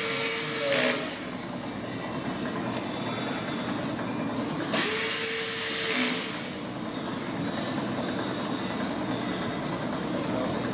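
Power drill/driver on a low setting running screws into the dryer's front panel: two runs of about a second and a half each, the first at the start and the second about five seconds in, each with a whine that rises quickly and then holds steady. A steady background noise runs between the runs.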